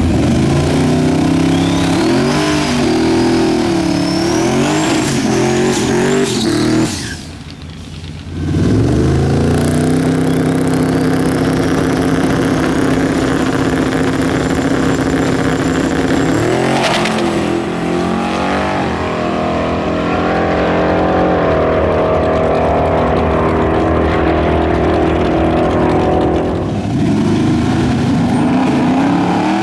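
Twin-turbo 5.3L V8 of a 1967 Chevy C20 pulling hard under boost, with a high turbo whistle rising in pitch. The sound drops away briefly about seven seconds in, then the engine pulls again and the whistle climbs once more and holds.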